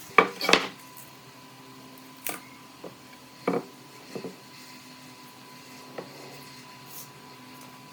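Scattered knocks and taps, two sharp ones in the first second and a handful of lighter ones after, over a faint steady hum.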